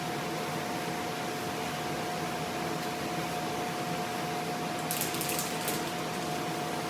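A steady mechanical hum with a constant high whine, and a short rattle of clicks about five seconds in.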